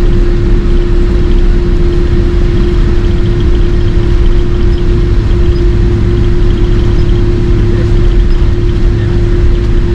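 Cabin noise of a Boeing 767-300 with General Electric CF6 engines in flight: a steady, loud low rumble with a constant hum running through it.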